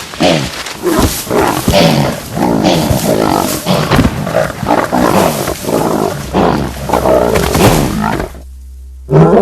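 Lions attacking prey: a rapid run of loud growls, roars and bellowing calls, about two a second, which breaks off near the end. One more loud roar-like call follows just before the end.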